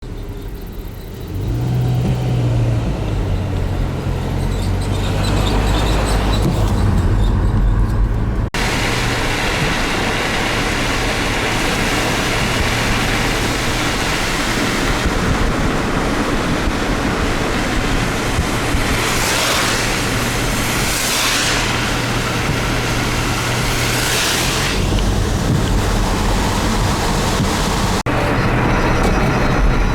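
Car driving: a steady low engine hum under road noise, with a few passing swishes in the middle. The sound cuts abruptly twice.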